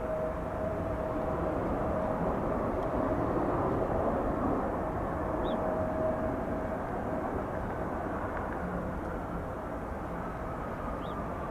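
Boeing 737-800 jet airliner's CFM56 engines rumbling with a steady drone, swelling and easing. A thin whine drifts slowly downward near the end.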